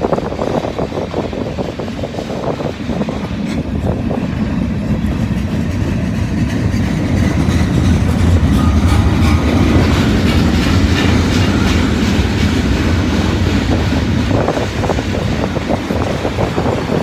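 Freight cars of a long mixed manifest train rolling past, steel wheels clicking over the rail joints over a steady rumble. The passing grows louder from about four seconds in and stays strongest through the middle.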